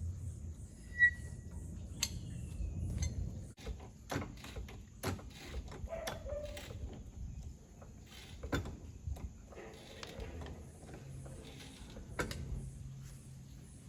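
Scattered metal clicks and knocks of hand work at a car's rear wheel with a floor jack, with a short sharp high squeak about a second in and another shorter squeak near six seconds.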